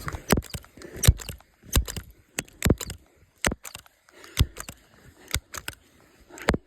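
An irregular series of sharp clicks and knocks, two or three a second.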